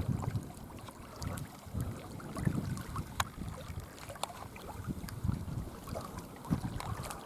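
Wind buffeting the microphone outdoors in irregular low gusts, with a few faint sharp clicks about three and four seconds in.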